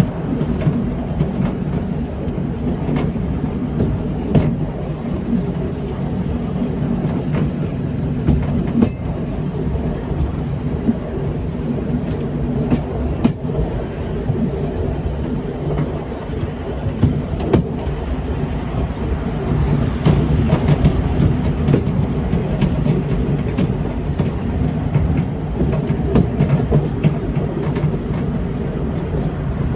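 Museum train running, heard from on board: a steady low rumble of the moving carriage with scattered clicks and knocks from the wheels on the track.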